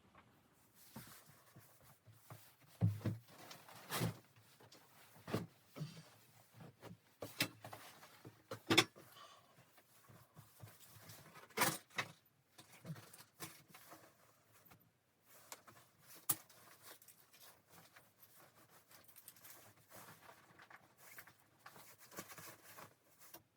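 Irregular clicks and knocks with faint rustling between them, the loudest knocks about 3, 4, 9 and 12 seconds in.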